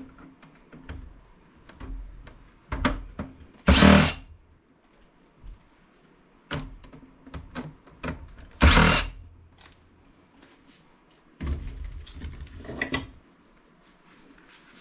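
A desktop PC case being taken apart: two loud half-second bursts of a power tool, about four and nine seconds in, with knocks and clunks of the case's metal and plastic parts around them.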